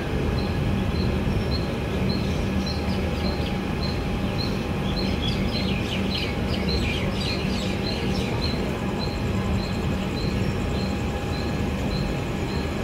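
Steady running noise of a moving passenger train, with a quick run of bird chirps in the middle. A faint high tick repeats about three times a second throughout.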